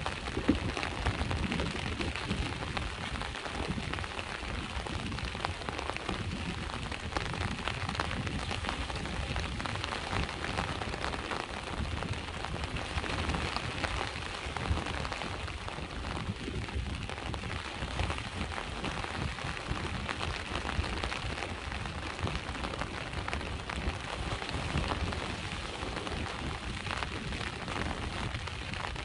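Steady rain falling, a dense patter of small drop ticks over a low surf rumble from the sea waves.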